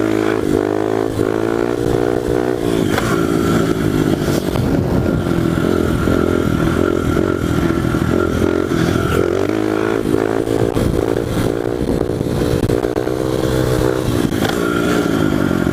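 1998 Honda XR100 pit bike's single-cylinder four-stroke engine running hard through an FMF aftermarket exhaust, which is obnoxiously loud for a pit bike. The engine note rises and falls with the throttle, dropping sharply about two and a half seconds in and shifting again around ten seconds.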